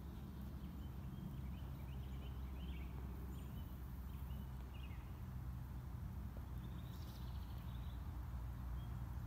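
Small birds giving short, high chirps, several in the first half and another cluster near the end, over a steady low rumble of outdoor background noise.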